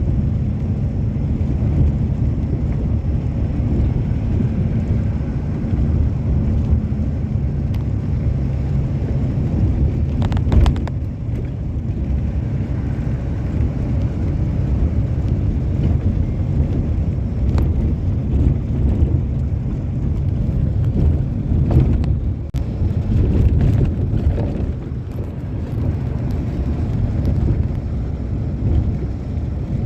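Passenger train running, heard from inside the coach at an open window: a loud, steady low rumble, with a few sharp clacks scattered through it.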